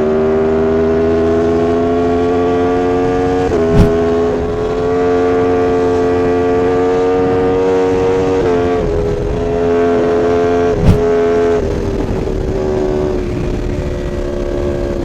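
Sportbike engine pulling hard at high speed, its pitch climbing slowly and dipping briefly at gear changes about three and a half and eight and a half seconds in. Two short, sharp clicks stand out, about four and eleven seconds in.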